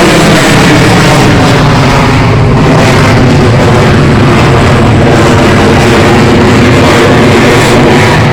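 Aircraft engine noise, loud and steady and nearly overloading the recording.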